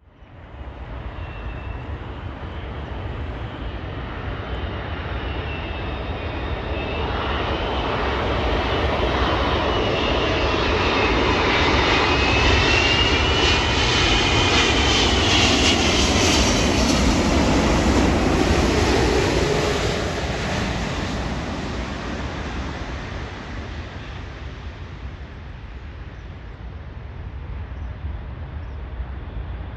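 Airbus A380-800 four-engine jet airliner flying past on its landing approach: the engine noise swells to a peak about halfway through, with a whine that bends down in pitch as it goes by, then fades away.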